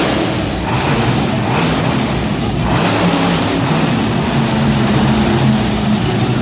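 Monster truck engine running loud under power, a dense steady engine noise.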